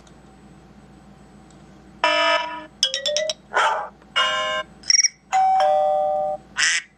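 An iPhone 4S loudspeaker plays the classic iPhone ringtones as they are tapped through one after another, starting about two seconds in. The snippets are short and chime-like, from a fraction of a second to about a second each, with one quick run of ticks and one brief noisy burst among them.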